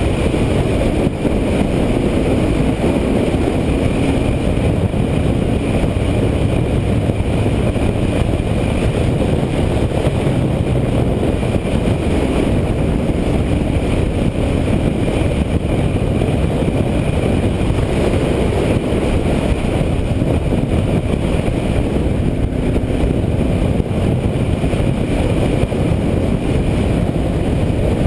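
Kawasaki KLR650 single-cylinder motorcycle running steadily at cruising speed, heard through a helmet-mounted camera with a dense rush of wind and road noise.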